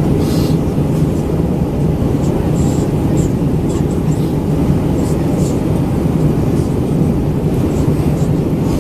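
Steady roar inside the cabin of an Airbus A319-112 in flight: its CFM56 jet engines and the airflow over the fuselage, heaviest in the low end, with no change in pitch.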